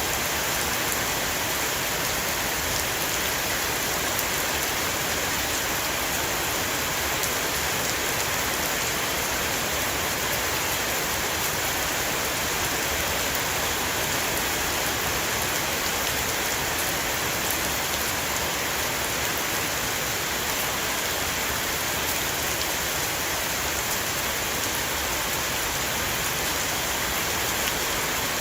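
Heavy rain falling steadily on a roof, a dense even hiss with many fine drop ticks.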